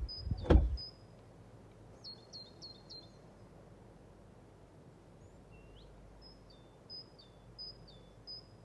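A single dull thump about half a second in, then small birds chirping in short phrases of a few high notes with pauses between, over faint outdoor background noise.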